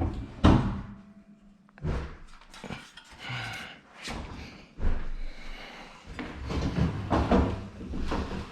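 Metal scaffolding being put together and its platform set in place: a string of irregular knocks, clanks and thuds, some ringing briefly.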